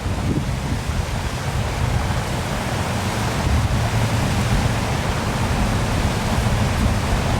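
Waterfall splashing in a steady, even rush of falling water, heavy in the lows with a deep rumble, the kind that wind buffeting the microphone also adds.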